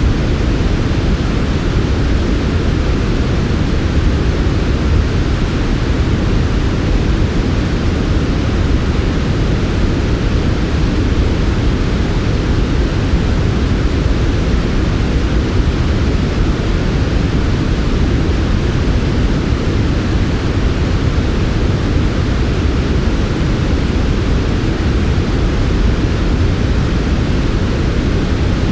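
Steady, unbroken sleep noise of the kind sold as white noise, fullest and loudest in the low range with a softer hiss above. It has no pulses, tones or changes.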